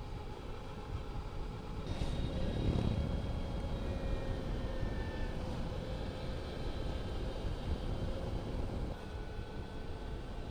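Riding an Energica Experia electric motorcycle: a steady rush of wind noise with the electric drivetrain's thin whine over it. A louder whoosh comes about two seconds in and fades a second or so later.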